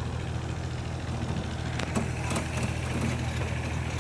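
Engine of a small tourist road train running steadily with a low hum, with a few brief rattling knocks about two seconds in.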